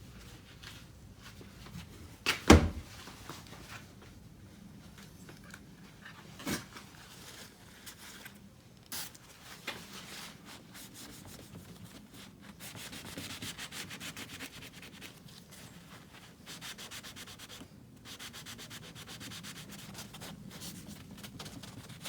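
Rag soaked in Goo Gone rubbed on a truck's painted body panel, scrubbing off leftover badge adhesive residue. A sharp knock comes about two and a half seconds in, and the rubbing turns into fast, even back-and-forth strokes through the second half.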